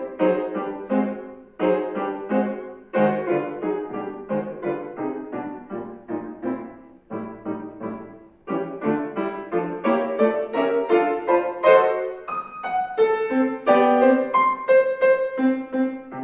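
Acoustic piano playing a classical piece in a fast run of notes, quieter around the middle and louder in the second half, then breaking off near the end.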